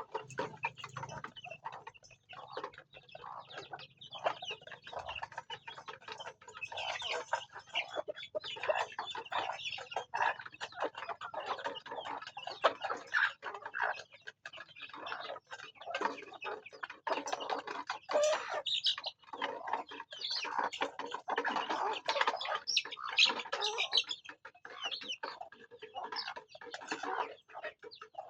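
A flock of farm chickens clucking, many overlapping calls with a busy stream of short, sharp sounds throughout.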